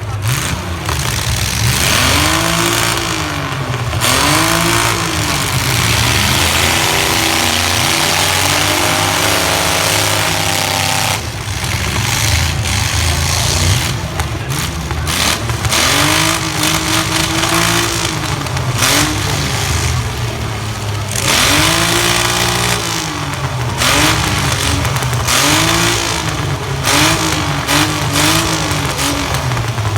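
Several compact pickup truck engines being revved hard and repeatedly, their pitch sweeping up and falling back again and again, with sharp bangs of trucks colliding scattered through it.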